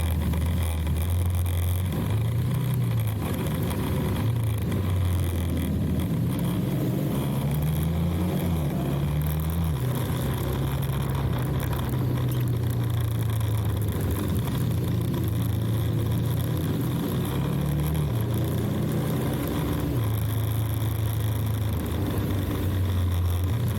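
Motorcycle engine running under way, its note rising and falling with the throttle, with a climb and drop in pitch about a third of the way through and another change near the end.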